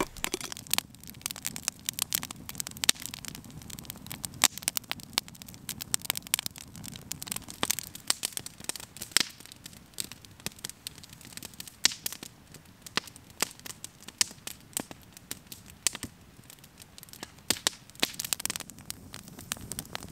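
Wood campfire crackling, with many sharp, irregular pops and snaps over a low steady rush.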